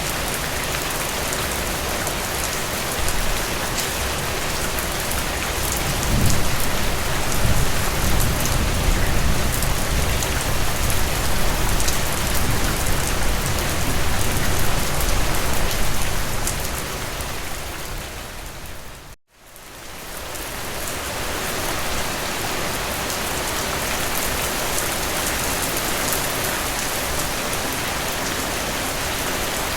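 Steady, heavy rain falling, with a low rumble swelling underneath for about ten seconds. About two-thirds of the way through, the rain fades out to a moment of silence and then fades back in.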